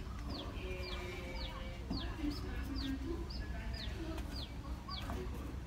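Birdsong: a bird repeating short, high chirps that slide downward, about two a second, with some lower calls underneath.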